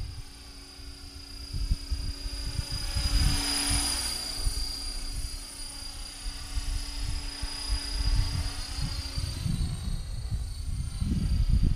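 HK-500GT electric RC helicopter in flight, its brushless motor and rotor giving a steady high whine that grows louder about three to four seconds in as it comes near, with gusts of wind buffeting the microphone.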